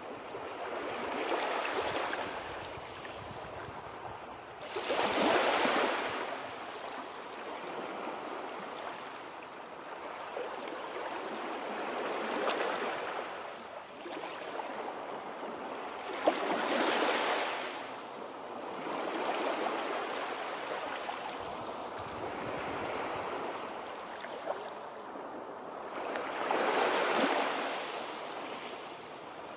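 Sea waves breaking on a shore. The surf swells and washes back in a slow irregular rhythm, one wave every few seconds.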